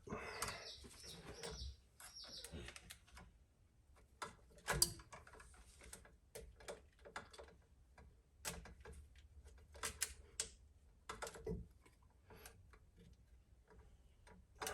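Scattered light clicks and knocks at an irregular pace, from electrical wires and a wall outlet being handled and pushed into the electrical box.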